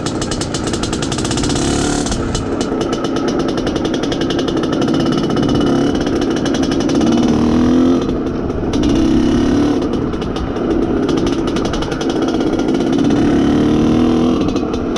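IZh Planeta Sport's single-cylinder two-stroke engine running under load as the motorcycle is ridden, its note rising and falling with the throttle several times. The engine is being run in.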